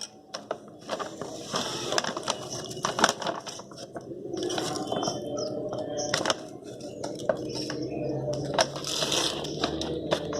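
Powder being stirred into water in a container, with irregular scraping, knocks and clinks from the stirring.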